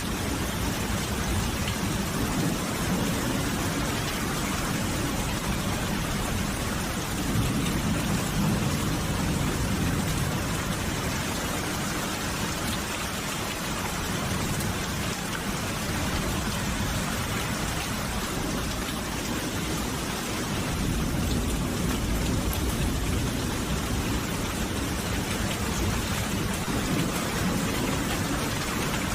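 Steady, dense rainfall hissing without a break, with low rumbles of thunder swelling up about eight seconds in and again past twenty seconds.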